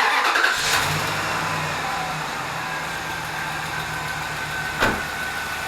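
2004 Dodge Dakota's 4.7L V8 just started and settling to a steady idle, with the lifter still ticking because it has not yet filled with oil. A single sharp click comes about five seconds in.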